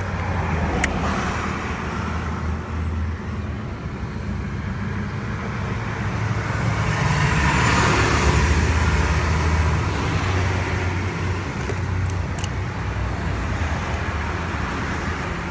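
Roadside traffic going past steadily, with one vehicle swelling louder as it passes about halfway through. A couple of faint clicks, one near the start and one toward the end.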